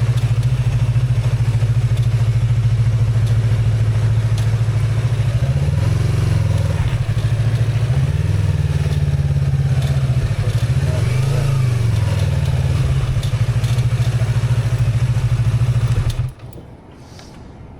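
Motorcycle engine running at a steady low idle, its pitch rising and falling a few times in the middle, then switched off about sixteen seconds in, leaving a much quieter background.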